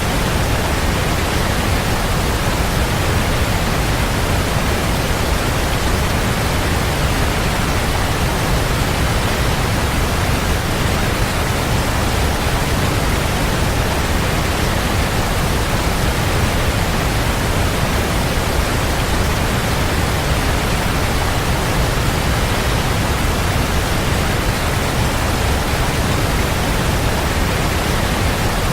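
Waterfall: a strong, steady rush of falling water with a deep low-end roar and no breaks or changes.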